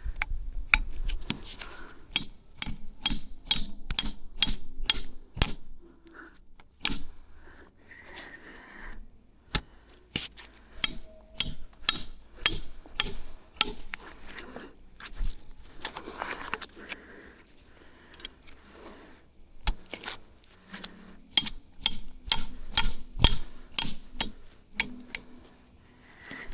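Repeated sharp knocks in quick runs of about three a second, with pauses between the runs, typical of a tool striking. A steady high-pitched tone runs beneath from about ten seconds in.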